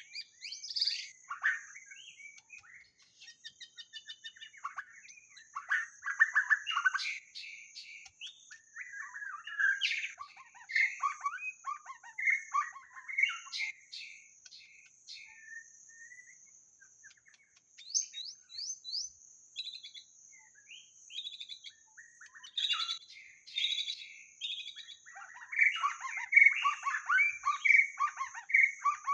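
White-rumped shama singing: bursts of rich, varied whistled phrases and rapid trills with short pauses between them. A steady high-pitched hiss runs underneath.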